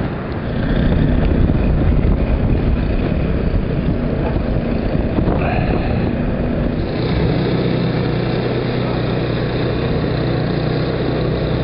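An engine running steadily under rough outdoor noise, with its low hum growing stronger about seven seconds in.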